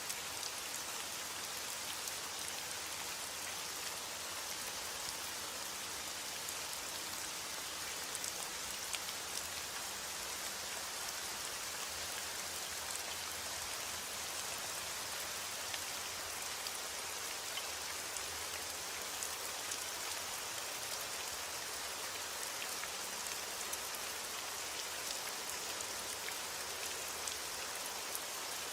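Steady heavy rain falling on a surface, a constant hiss with small drops ticking through it.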